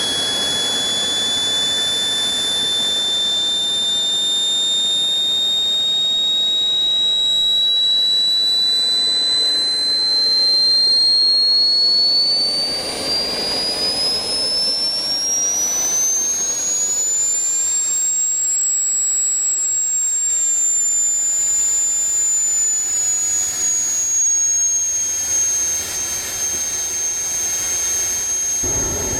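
Small model jet turbine of an RC drag car running with a high whine over a rushing hiss. The whine climbs slowly in pitch as the turbine spools up, then eases down slightly and holds steady.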